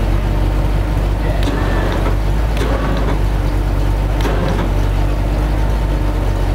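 Off-road vehicle engine running steadily with a low rumble, with a few sharp knocks scattered through it.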